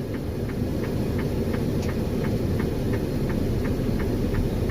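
Steady low rumble of a truck's engine and tyres on a snow-packed road, heard from inside the cab, with a light, even ticking about three times a second.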